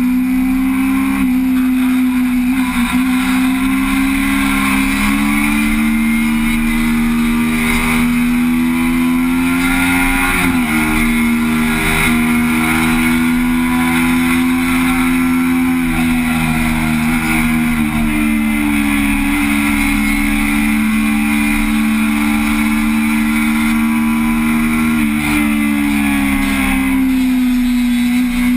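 Sport motorcycle engine running at road speed, its pitch mostly holding steady with small rises and falls as the throttle changes, under heavy wind noise on the microphone.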